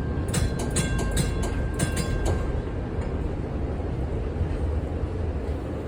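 1948 Philadelphia PCC streetcar rolling on the track: a steady low rumble, with a run of sharp clicks and a faint high tone through the first two seconds.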